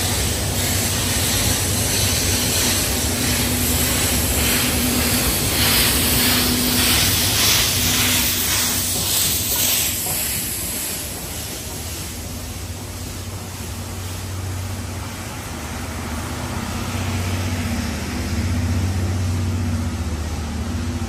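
D51 steam locomotive passing close by, hauled in steam behind an EF65 electric locomotive, its steam hissing in regular surges about once every three-quarters of a second. After about ten seconds this gives way to a lower steady rumble of 12-series coaches rolling past on the rails.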